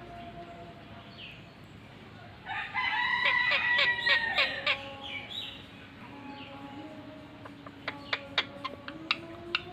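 A bird's long crowing call, like a rooster's crow, lasting about two seconds and starting about two and a half seconds in. A run of sharp clicks follows near the end.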